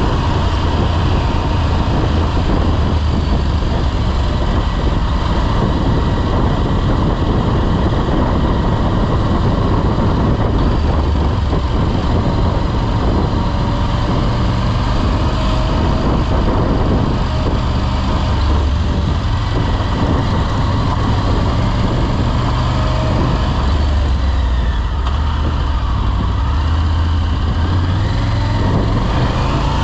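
Motorcycle engine running on the move, mixed with steady wind and road noise; the low engine note shifts up and down now and then.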